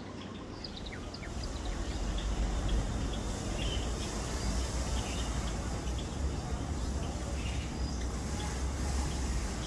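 Small birds giving short, high chirps, several in quick succession in the first second or so and then only scattered calls. Under them is a steady low rumble of background noise that swells about a second and a half in.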